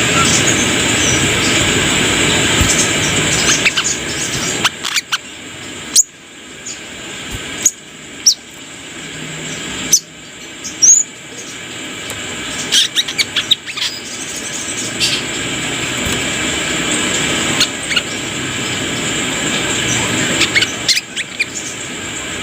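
Brown-throated sunbird (kolibri kelapa) giving sharp, short, high chirps in scattered clusters over a loud rushing background noise. The noise fades a few seconds in and slowly builds again.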